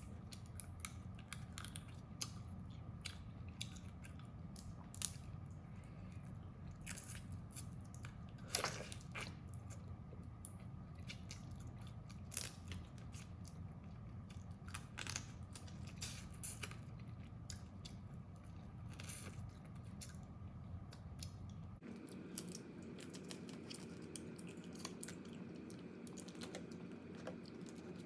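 Crab shells cracking and crunching as they are bitten and chewed, a scattered run of sharp cracks over a steady low hum.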